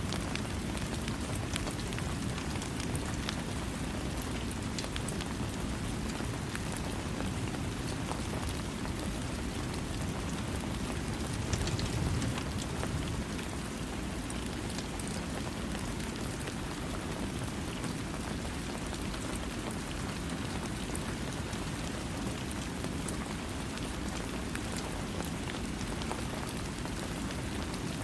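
Steady heavy rain falling on a surface, a dense hiss with a deep low rumble and scattered individual drops ticking through it. The low rumble swells briefly about halfway through.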